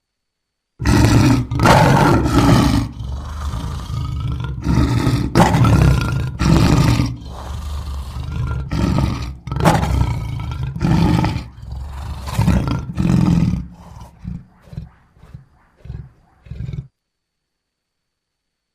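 A lion roaring: a bout of long, loud, deep roars that tails off into a run of shorter, quieter calls, stopping near the end.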